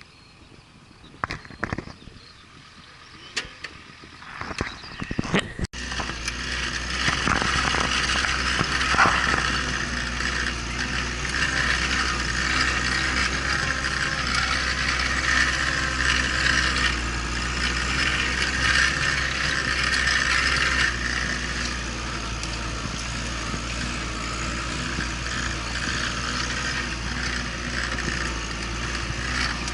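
A few scattered clicks and knocks, then about six seconds in a vehicle engine starts to be heard running steadily, with a constant rushing noise over it, to the end.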